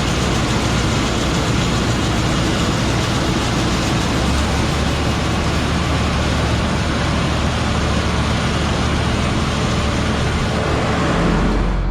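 A heavy diesel farm or road vehicle running steadily, a dense even engine-and-machinery noise with no speech.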